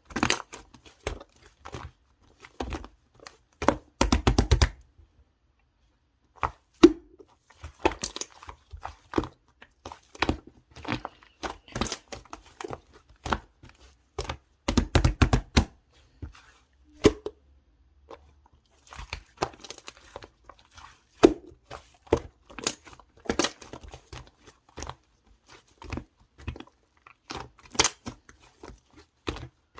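Pink pearl slime being squeezed and stretched by hand, giving a quick run of small clicks and pops from air trapped in it. The pops come thicker a few seconds in and again about halfway, with brief quiet gaps between.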